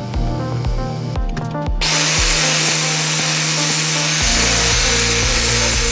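Background music with a steady beat; about two seconds in, a power tool with a grinding wheel starts grinding on a steel drawer slide, a loud, steady hiss over the music.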